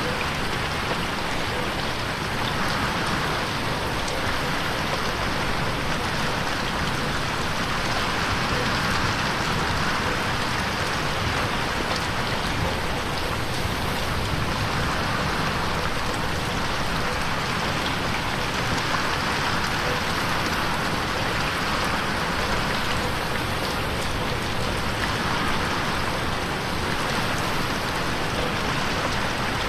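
Steady rain pattering on a window pane, an even hiss of drops with faint individual taps.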